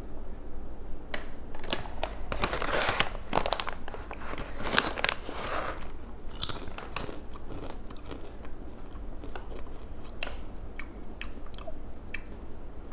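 Crunching and chewing on a crunchy salted-egg nasi lemak snack: a run of sharp, crackly bites, busiest in the first few seconds, then sparser chews. The snack's bag crinkles in between.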